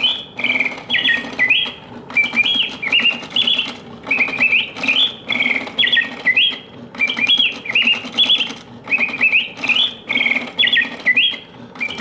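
Antique Bontems double singing bird cage playing: its clockwork automaton birds, whose song comes from a bellows-driven piston whistle, sing in alternation. The song is short high chirping and trilling phrases repeated with brief pauses, over a low steady hum.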